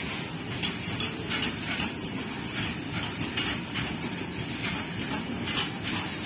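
Open-top freight wagons rolling past: a steady rumble of steel wheels on the rails, broken by repeated sharp clicks and clatters from the wheelsets.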